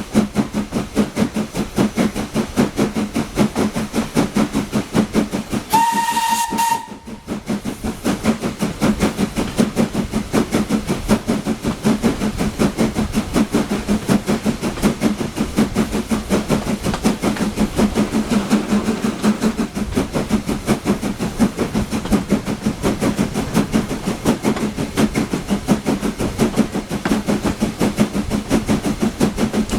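LSWR S15 two-cylinder 4-6-0 steam locomotive hauling its train, its exhaust beating rapidly and evenly. About six seconds in, its whistle sounds once on a single steady note for about a second.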